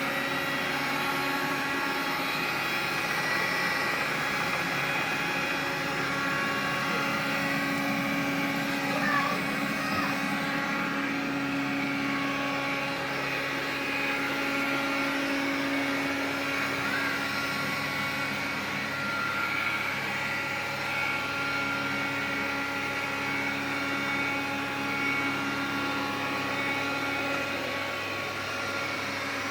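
Xiaomi vacuum cleaner running steadily, a motor whine made of several held tones over a steady hum. It carries an extraneous noise that the owner takes for a fault.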